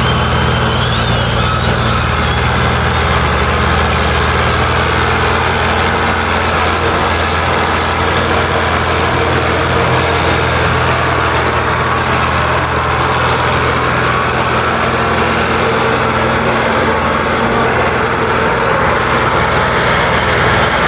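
Fiat 640 tractor's diesel engine running steadily under heavy load, hauling a loaded sugarcane trolley.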